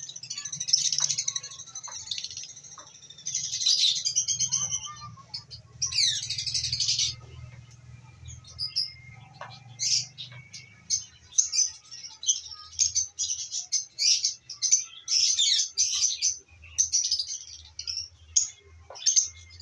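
Lovebirds chirping: rapid, shrill chirps and chatter in clusters, with one falling call about six seconds in.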